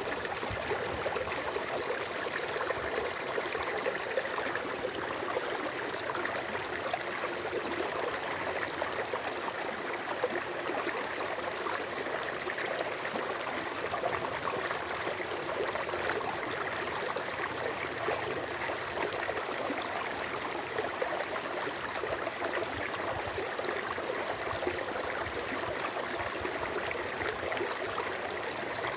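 Steady running water of a small stream.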